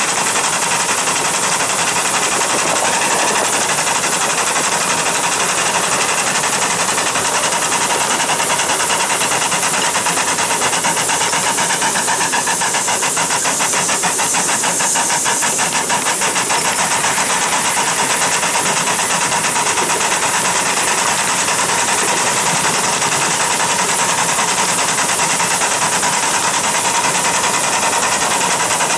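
Train running with a steady, unbroken noise; a rapid fine ticking comes through about halfway.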